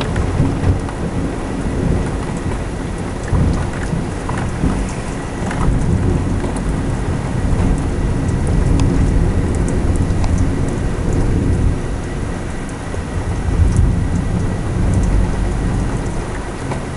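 Heavy thunderstorm: a steady downpour of rain with thunder rumbling and swelling through it, and scattered sharp patters of drops.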